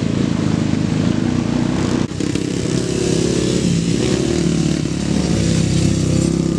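Small pit bike engine running hard as the bike is ridden, its pitch rising and falling with the throttle, with a brief dip about two seconds in as the throttle is let off or a gear is shifted.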